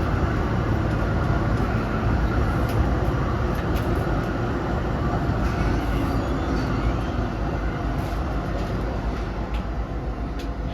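Z3-class tram running along the track, heard from inside the car: a steady rumble of wheels and motors with a few light clicks and rattles.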